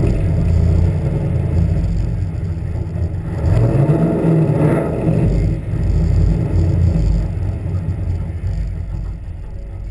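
Car engine running hard, heard from a camera mounted on the car's side, with a heavy low rumble; the engine note rises between about three and a half and five seconds in, then eases off near the end.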